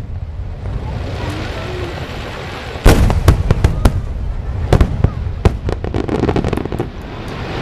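Aerial fireworks bursting over a continuous low rumble. A volley of sharp bangs comes about three seconds in, followed by further scattered bangs and a run of quick smaller pops.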